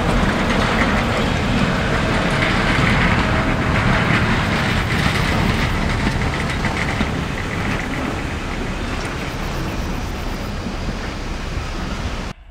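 A SIG/BBC/Sécheron Be 4/4 metre-gauge electric railcar passing by, its wheels rumbling along the rails. The sound is loudest in the first few seconds and slowly fades as the car moves away, then cuts off suddenly near the end.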